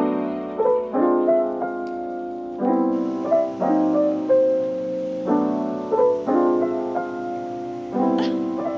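Background piano music: soft chords struck about once a second, under a simple melody.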